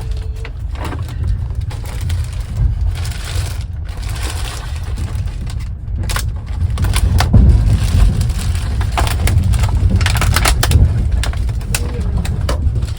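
Passenger train carriage running, heard from inside: a steady low rumble with rattling clicks and knocks, busiest from about seven to eleven seconds in.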